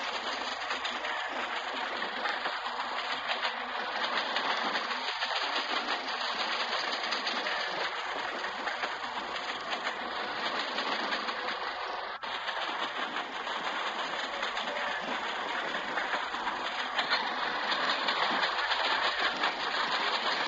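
Train running on the track, a steady dense rattle and hiss with a brief break about twelve seconds in.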